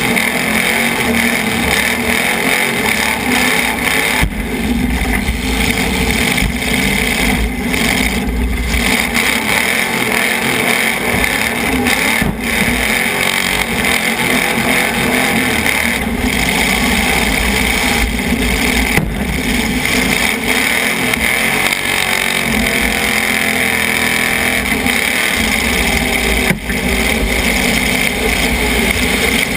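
Demolition derby car's engine running loud and steady, heard from inside the car's cabin, with brief dips in level now and then.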